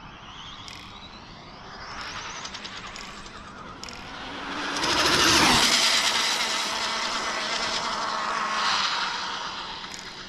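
High-speed electric RC car making a speed-run pass: its motor whine builds, peaks about five seconds in with the pitch dropping as it goes by, then fades away. The pass clocked about 166 mph.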